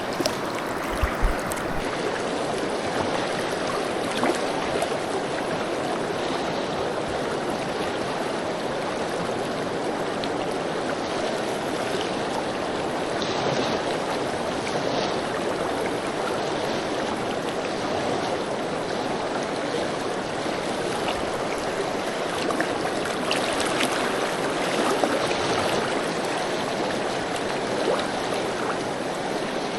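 River water flowing with a steady rushing sound, with a few small knocks in the first couple of seconds.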